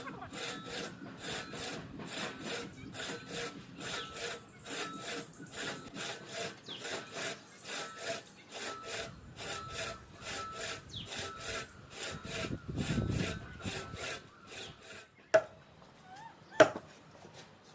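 Hand saw cutting through tree wood in quick, even back-and-forth strokes, about three a second. The sawing stops about fifteen seconds in, and two sharp, loud knocks follow near the end.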